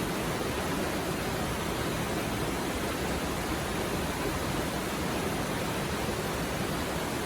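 Mountain river stream flowing over rocks: a steady, even rush of water.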